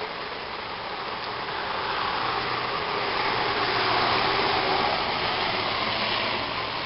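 Storm rain falling steadily, with a rushing swell of noise that builds for a couple of seconds and fades again over about five seconds.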